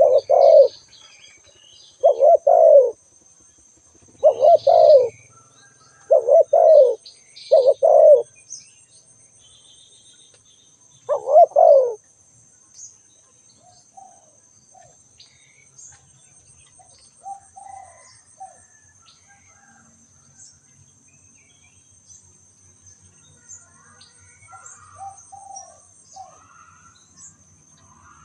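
A spotted dove cooing: six loud, low coo phrases about a second long each, spaced one to three seconds apart, stopping about twelve seconds in. After that only faint chirps of other birds and a steady high, thin tone remain.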